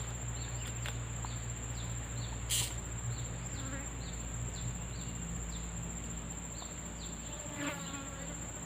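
Steady low buzzing of an insect, with a steady high whine and a run of short, high, falling chirps about twice a second; a brief rustle about two and a half seconds in.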